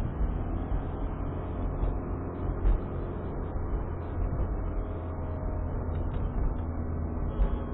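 Steady low rumble of a car driving: engine and tyre noise heard from inside the vehicle.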